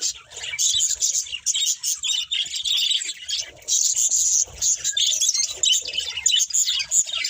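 Budgerigars chattering and warbling in a fast, continuous stream of high chirps and twitters.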